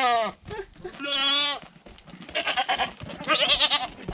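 Boer goats bleating: about four quavering bleats in a row, a few seconds' worth, with short pauses between them.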